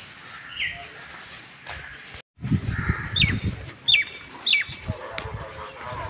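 Birds calling outdoors: short falling chirps, three in quick succession a little past the middle, over a low, uneven rumble. The sound cuts out briefly just before the calls.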